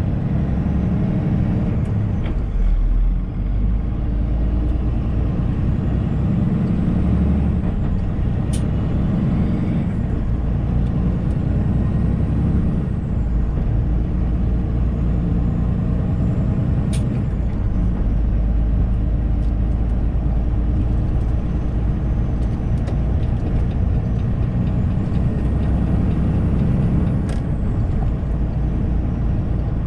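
Semi-truck's diesel engine and road noise heard from inside the cab while driving, a steady low rumble with a few isolated sharp clicks.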